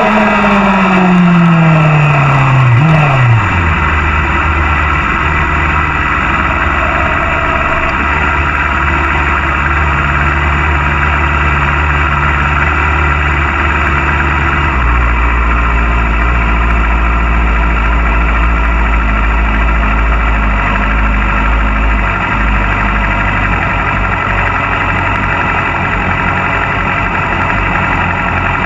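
A Supersport 300-class racing motorcycle engine dropping off the revs, its pitch falling over the first few seconds with a short blip near the end of the fall, then idling steadily.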